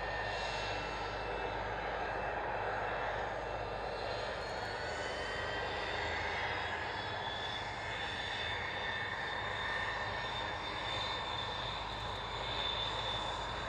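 Aircraft engine running steadily on the airfield, a continuous noise with faint high whining tones that slowly drift in pitch.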